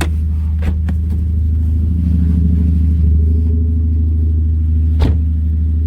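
Hyundai Genesis Coupe's 2.0-litre turbo four-cylinder running steadily at idle. Three sharp clicks or knocks are heard over it, the loudest about five seconds in.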